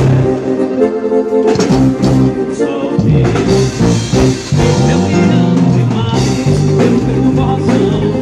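Forró band playing live during a soundcheck: full band music with a moving bass line and sustained melody notes.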